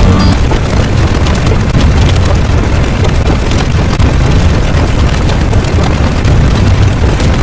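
A loud, continuous deep rumble of noise, heavy in the low end and steady throughout, with no separate blasts or impacts.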